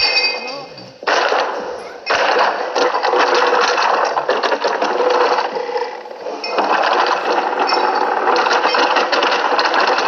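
A small motor-driven mechanism running with a fast clattering rattle over a steady whine. It comes in strongly about a second in and eases off briefly around six seconds.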